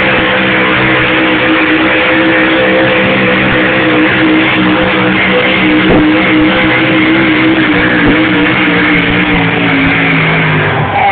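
A competition pulling tractor's engine running loud at high, nearly constant revs under load, sagging slightly in pitch near the end.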